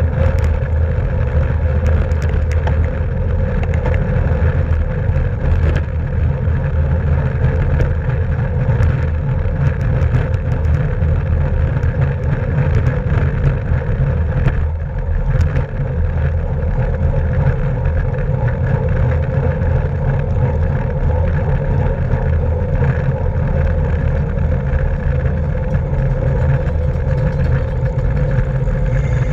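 Steady wind and road noise from a racing bicycle at speed: wind rushing over the microphone of a bike-mounted camera, with tyre hum underneath.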